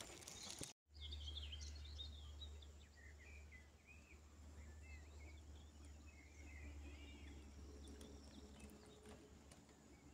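Faint birdsong, short chirps scattered throughout, over a steady low hum, after a brief dropout about a second in.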